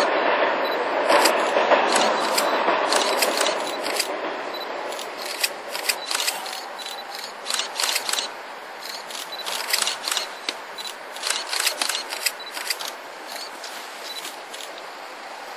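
Korail O-train tourist train running along the track, fading as it moves away over the first few seconds. After that, a series of irregular sharp clicks and scrapes close to the microphone.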